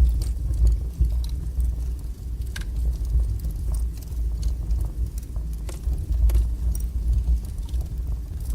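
Strong wood fire burning in a fireplace: a steady low rumble of flames with scattered sharp crackles and pops from the burning wood.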